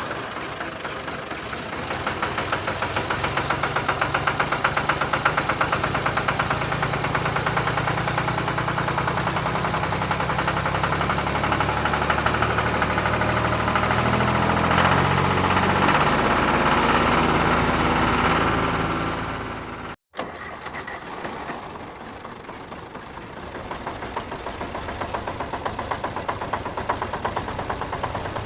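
A vehicle engine running with a fast, even pulse, getting louder toward the middle. It cuts off abruptly about 20 seconds in, followed by a quieter engine running.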